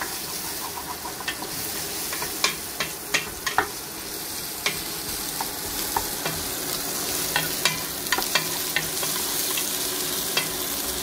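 Onions, garlic and ginger sizzling in hot oil in a stainless steel pot, while a wooden spoon stirs them and knocks against the pot's side in sharp, irregular clicks.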